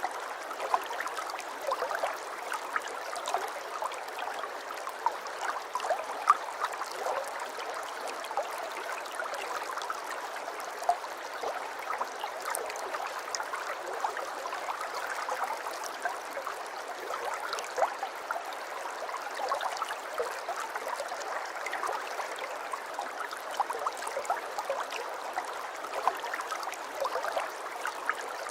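Aquarium water trickling and bubbling steadily, a constant splashing dotted with many small pops.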